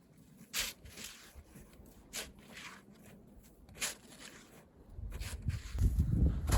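A few short crunching scrapes in snow, then about five seconds in a low, gusting rumble of wind on the microphone builds up and grows loud.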